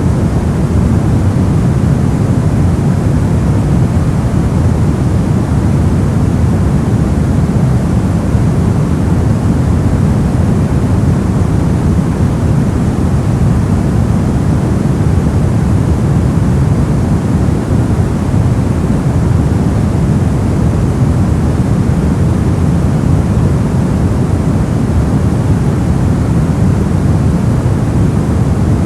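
Steady, unbroken noise of the kind played as a sleep or focus aid, deep and rushing, heaviest in the bass with little treble, so closer to brown or pink noise than to a flat hiss.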